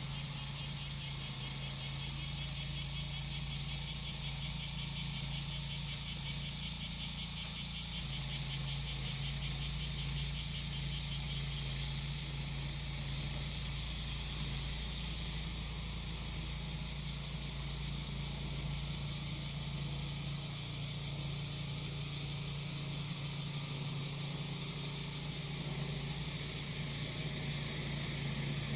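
Small engine of a grass-cutting machine running at a steady speed, with cicadas droning high and shrill over it in a fast pulsing buzz that smooths out about halfway through.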